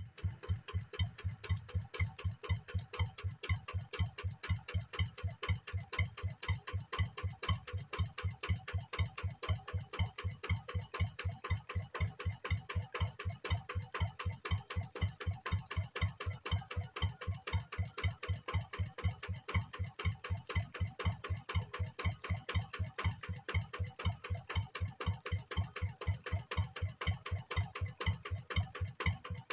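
Kubota diesel engine idling at a slow, even beat, about five firing pulses a second.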